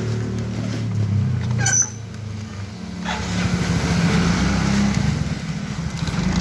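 Motorcycle engine running while riding, with wind and road noise. The engine eases off about two seconds in, then picks up again, and the wind and road noise grow louder; a brief high-pitched chirp sounds just before the engine eases off.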